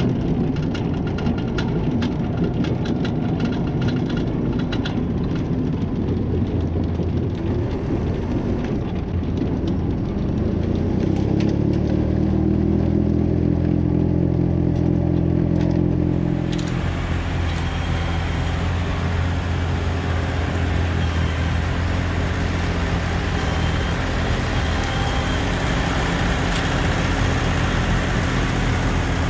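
Tractor engine running, its pitch rising as it revs up; about halfway through the sound changes abruptly to a louder, steady rushing as the rear-mounted snowblower runs.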